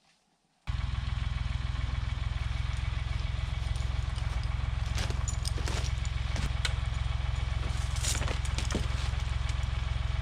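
Farm tractor engine running steadily. It comes in abruptly about a second in, with a few sharp cracks and clicks over it in the second half.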